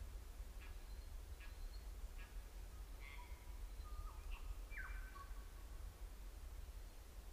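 Faint bush birdsong. A short call repeats about every three-quarters of a second, then a few whistled notes come around the middle, some falling sharply in pitch, over a steady low rumble.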